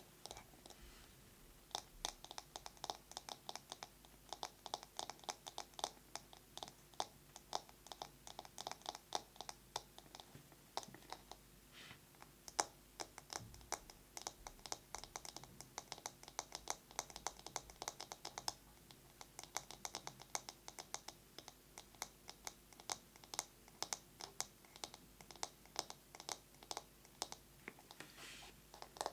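Fast tapping on a bamboo massage brush, a quick, dense run of light clicks, broken by a couple of short pauses.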